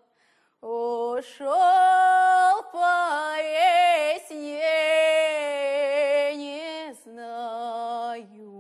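A woman singing a slow, drawn-out Russian folk song, holding long notes with vibrato. The song resumes after a short pause at the start.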